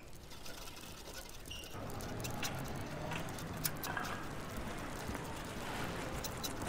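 Wheelchair being pushed along a paved walkway, wheels rolling with scattered clicks and taps over a steady outdoor hum; the sound grows louder about a second and a half in.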